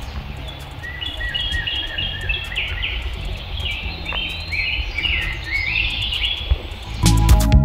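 Woodland birdsong: a bird sings repeated phrases of short, stepped whistled notes over a steady low rumble. Music comes in loudly near the end.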